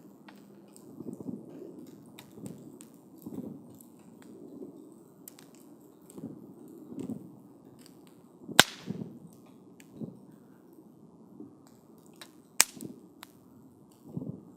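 Wood campfire burning and crackling, with many small ticks and soft low puffs. Two loud, sharp snaps stand out, a little past the middle and again about four seconds later.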